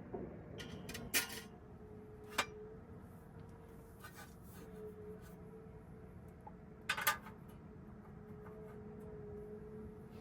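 A few short, light clinks and knocks, the loudest about seven seconds in, over a steady low hum with a faint wavering tone.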